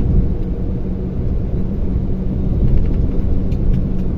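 Mercedes-Benz Axor 2644 truck's diesel engine running steadily with road rumble while driving.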